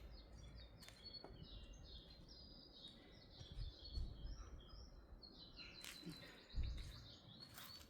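Small birds chirping faintly in a quick run of short high chirps, with a couple of soft low thumps.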